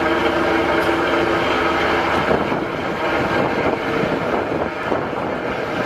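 A drag-racing car's engine running steadily off to one side, an even hum of several tones that turns rougher and noisier after about two seconds.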